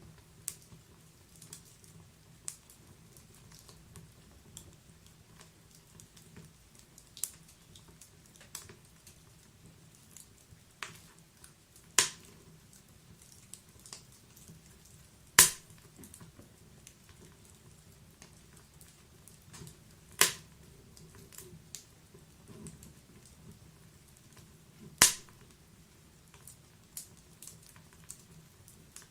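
Wood fire crackling in a fireplace: a soft steady hiss of burning with scattered sharp pops and snaps, four of them much louder than the rest, spaced a few seconds apart.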